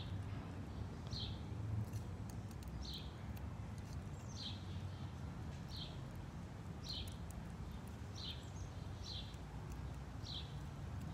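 A bird repeating a short high chirp, about nine times, one every second or so, over a steady low background rumble. Faint sharp clicks come from a squirrel cracking seeds and corn.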